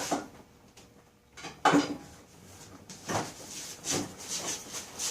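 Irregular metal clunks, knocks and scraping as the Honda Rancher 350 engine is pried up and shifted in its frame, with a loud clunk a little over a second and a half in.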